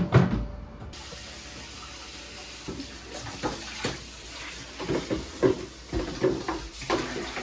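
A tap running into a sink, switched on about a second in, with a knock at the start and repeated clatters of items being handled under the water during cleaning.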